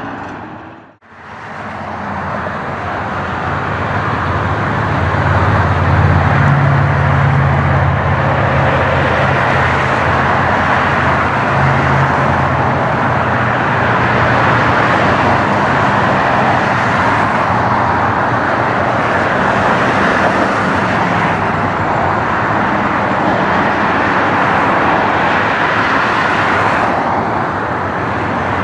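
Jet airliner engines running loud and steady, the sound building over a few seconds after a sudden break near the start.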